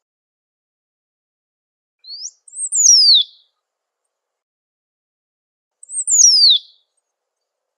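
Great pampa-finch (sabiá-do-banhado) singing: two short high phrases about four seconds apart, each rising briefly and then sliding steeply downward.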